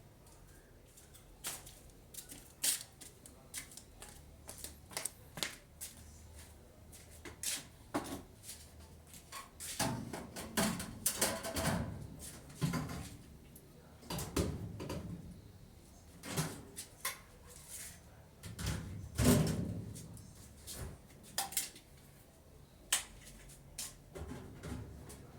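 Lids being fitted onto a hot dog cart: irregular clicks and knocks, with heavier thumps and scraping about ten seconds in and again a few seconds later.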